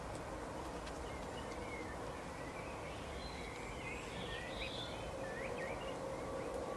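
Small garden birds chirping: many short, quick calls, thickest in the middle, over a steady background hiss and hum.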